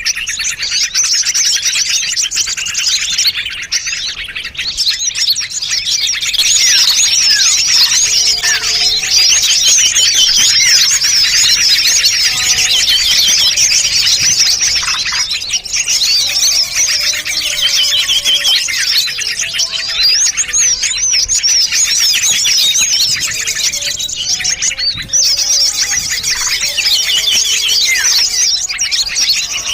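A dense, unbroken chorus of many small songbirds chirping and trilling over one another, with scattered short lower whistled notes. It is a mixed bird-lure recording, made to draw small birds in.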